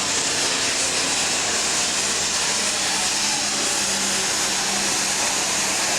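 International 986 diesel super stock pulling tractor's engine running flat out, a steady loud hiss-laden noise with no break in level.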